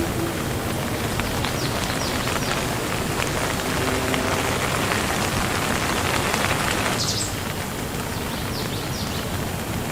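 Steady rain falling, a dense hiss of many drops striking a surface. The higher part of the hiss drops suddenly about seven seconds in, leaving the rain softer.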